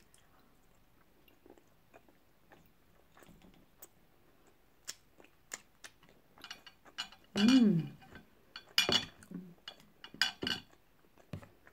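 Close-up mouth sounds of sushi being chewed, with small wet clicks and smacks. About seven seconds in comes a short hummed vocal sound falling in pitch, then a few sharper clicks near the end.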